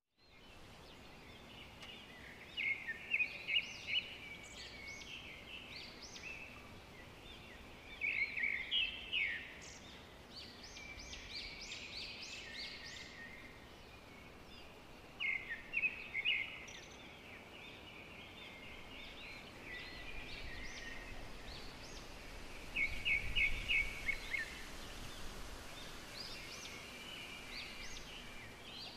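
Birds chirping and singing in short runs of quick, high notes, with pauses between the runs, over a steady background hiss of outdoor ambience.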